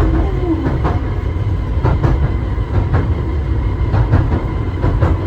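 Pier train carriage running along the rails, a steady low rumble with irregular rattling clacks from the wheels and carriage.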